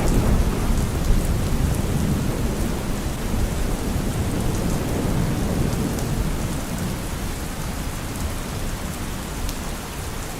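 Steady rainfall with low rolling thunder underneath, the rumble easing off over the last few seconds.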